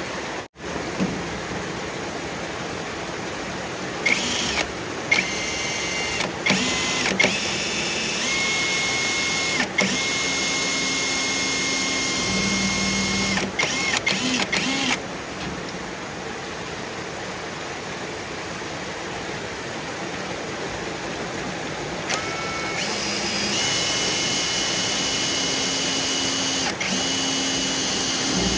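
A small electric motor, like a power tool, whirring in several stop-start runs with a steady whine, over a constant rush of running water.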